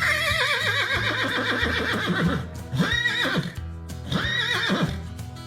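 A horse neighing: one long whinny with a quavering, falling pitch, then two shorter whinnies about three and four and a half seconds in. Background music plays underneath.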